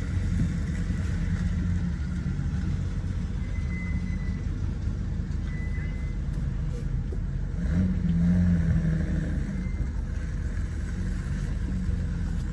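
Car engine running at low speed as a car is manoeuvred into a parking space, a steady low rumble that swells briefly about eight seconds in.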